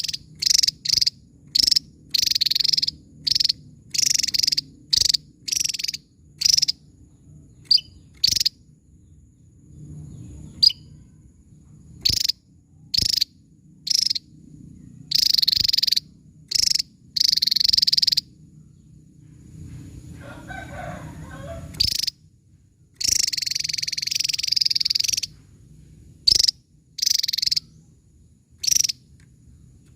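Javan tesia singing: a run of sharp, high-pitched bursts of song, most short and a few lasting a second or two, separated by brief pauses, over a faint low hum.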